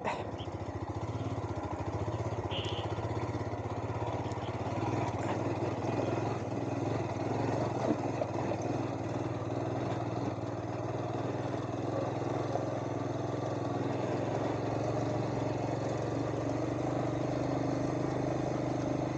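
Royal Enfield Himalayan's single-cylinder engine running at a steady, even speed.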